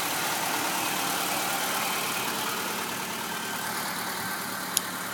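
Toyota 4A-GE twin-cam four-cylinder engine idling steadily. The owner says it purrs like a kitten but that its valves need adjustment. A single sharp click sounds near the end.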